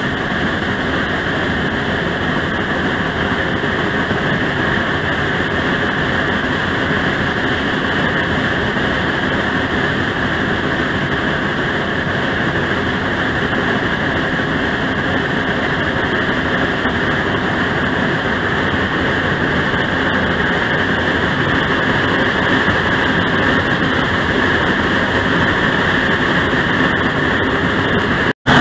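Steam train running along the track, heard from aboard as a steady rumble and rattle; it cuts out for a moment near the end.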